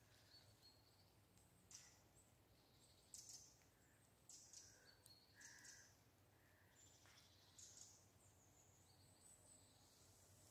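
Faint bird calls: short, high chirps and calls scattered every second or so over a quiet outdoor background with a faint low hum.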